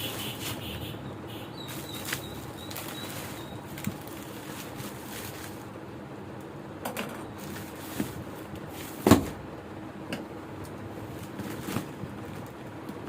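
A parcel of garments being unpacked by hand: packaging rustling, with scattered light clicks and one louder knock about nine seconds in.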